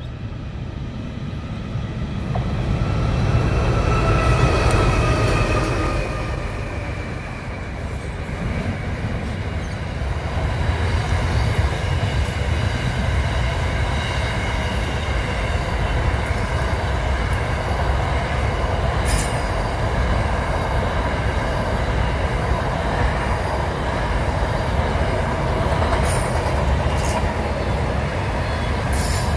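Intermodal freight train's container wagons rolling past: a steady low rumble of wheels on rail with high, steady squealing tones from the wheels running through it. It swells louder about three to five seconds in.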